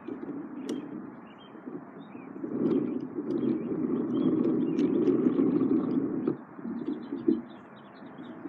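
Battery-powered toy train's small electric motor running, a low hum that swells and dips, with light clicks from the wheels on the track.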